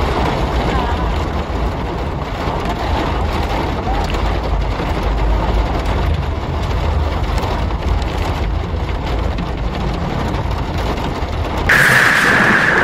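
Rain and car noise heard from inside a car during a thunderstorm: a steady, dense rush over a low rumble. Near the end, a sudden louder, higher hiss comes in for about a second.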